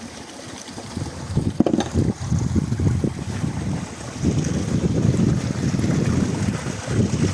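Wind buffeting the microphone in irregular low gusts, heavier in the second half, with a sharp knock about one and a half seconds in.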